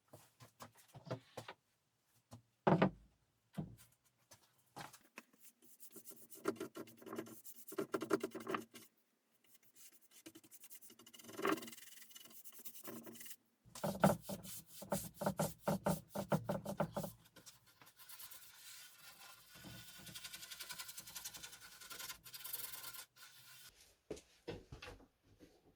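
Hand rubbing on a wooden surface in bursts of quick back-and-forth strokes, with a sharp knock about three seconds in.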